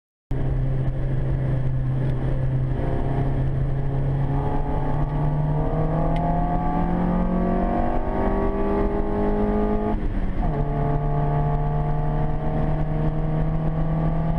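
Car engine running under load, its note climbing steadily, then dropping suddenly about ten seconds in, as at a gear change, and holding steady after.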